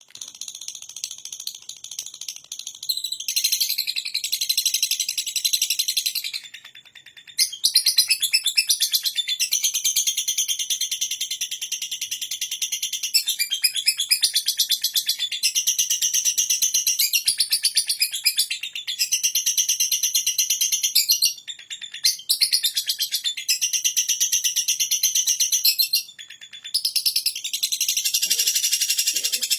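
Lovebird singing its long 'ngekek' song: a rapid, high-pitched chattering trill kept up for many seconds at a time, broken by a few short pauses.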